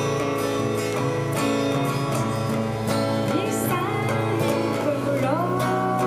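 Live music: a strummed acoustic guitar plays a steady chordal accompaniment, and about halfway through a singing voice comes in with the melody.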